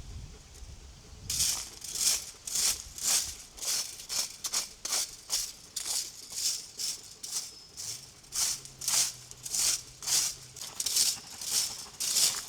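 Rhythmic raspy scraping strokes, about two a second, starting about a second in and keeping an even pace.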